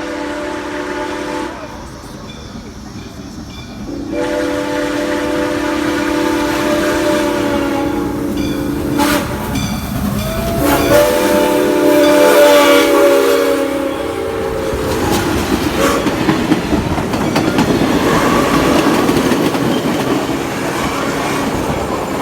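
Steam locomotive's chime whistle blowing three long blasts, a chord of several steady tones. Then the train passes close by with a loud, continuous rumble of the locomotive and cars on the rails.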